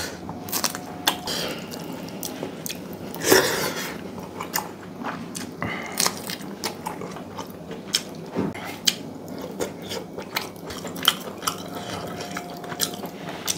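Close-miked chewing and biting of chicken curry, rice and green chilli, with many short wet mouth clicks and smacks and a few louder bites.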